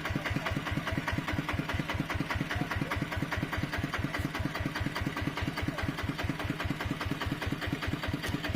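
Mini tractor's engine running steadily, with an even chugging pulse of about eight beats a second.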